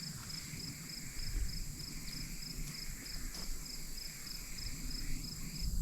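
Faint hiss of an inverted marking-paint spray can held down and released near the end, over insects chirping steadily about three pulses a second.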